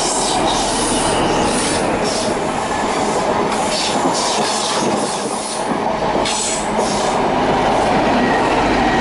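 Midland Pullman Class 43 HST passing through a station at speed: loud wheel noise on the rails with irregular clicks and clatter over the rail joints, and the rear power car's diesel engine coming by near the end.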